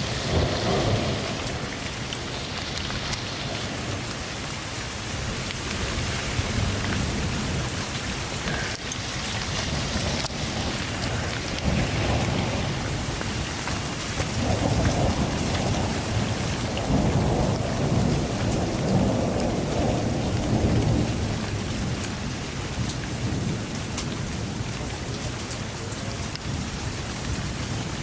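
Heavy rain pouring steadily, with low rumbling swells right at the start and again for several seconds past the middle.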